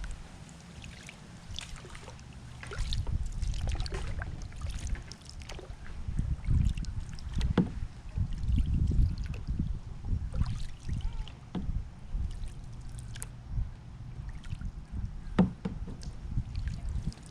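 A kayak hull rocking on the water, with low knocks and sloshing and scattered small clicks and taps of gear.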